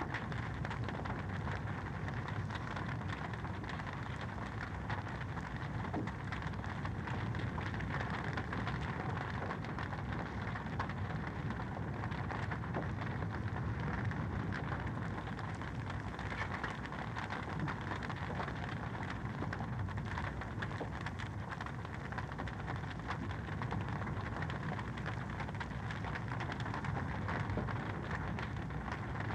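Wood fire crackling in a fireplace: a steady hiss dense with small pops and snaps.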